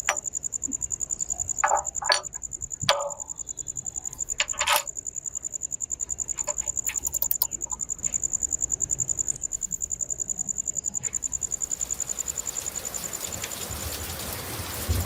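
Insect trilling: a high, steady pulsing tone at about eight to ten pulses a second, with a few short clicks and knocks in the first five seconds and a hiss that builds from about twelve seconds in.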